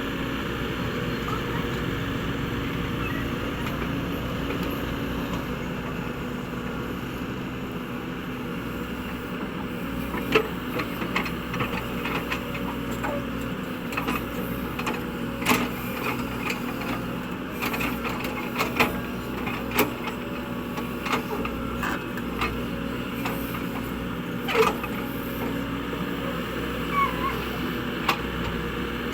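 Caterpillar 307E2 mini excavator's diesel engine running steadily under work. From about ten seconds in, irregular sharp knocks and clanks from the working machine cut in over it.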